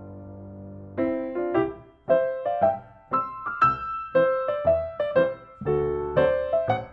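Background piano music: a chord held for about a second, then a run of struck notes in an unhurried melody.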